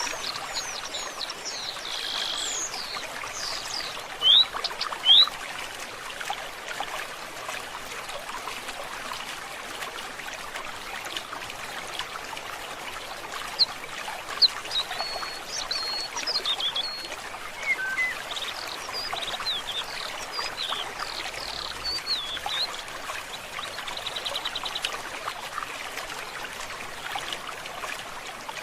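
A stream trickling steadily, with birds singing over it in short high chirps and whistled notes. Two sharp, loud notes come about four to five seconds in, another spell of calls falls in the middle, and there is a fast trill towards the end.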